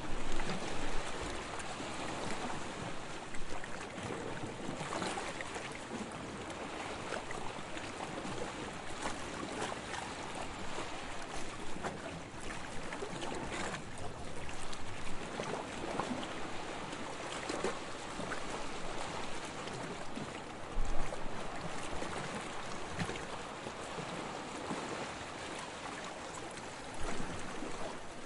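Soft waves lapping on a sandy shore: a steady wash of water with fizzing and small splashes, swelling briefly a few times, most strongly about a second in and again about three-quarters of the way through.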